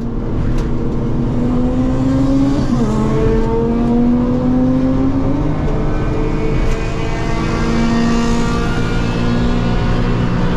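Suzuki Alto kei car's 660cc three-cylinder engine accelerating hard at full throttle, its pitch climbing and dropping at an upshift about 3 s in and again near 6 s, then running steadier.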